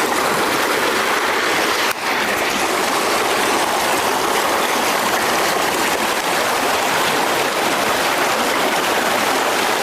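River current rushing steadily, a loud even wash of flowing water, with a brief break about two seconds in.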